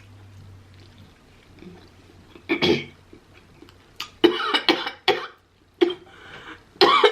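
A person coughing and clearing their throat in several short bursts: one about two and a half seconds in, a cluster from about four to five seconds, and more near the end.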